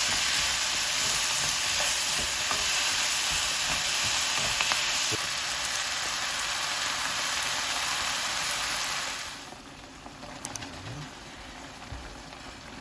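Sliced onions sizzling and being stirred in a frying pan, sautéing with a little sugar. The sizzle cuts off suddenly about three quarters of the way through, leaving a much quieter background with a few light clicks.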